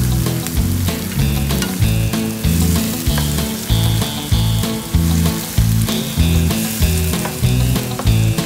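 Marinated beef strips and onion rings sizzling as they fry in a pan, stirred with a spatula. Background music with a steady beat and a bass line plays alongside.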